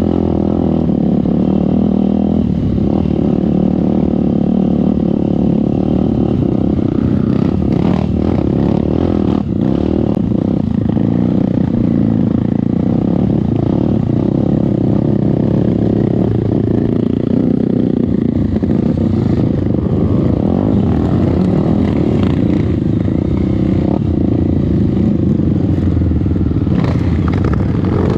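Trail dirt bike engine running steadily, with a few brief clattering knocks.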